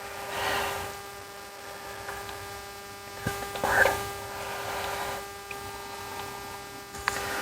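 Steady electrical hum with a faint whine above it, and a few soft hissing swells and faint clicks.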